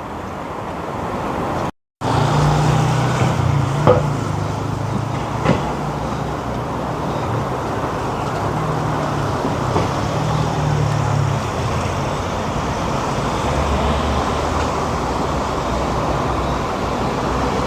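Steady road traffic noise with the low hum of passing vehicle engines rising and falling, and two light knocks about four and five and a half seconds in.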